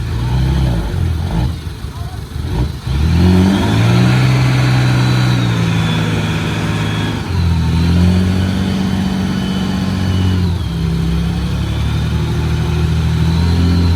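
Komatsu D20P bulldozer's diesel engine working under load as it pushes soil: it revs up about three seconds in, holds high with a brief dip in the middle, then settles to a lower pitch for the last few seconds.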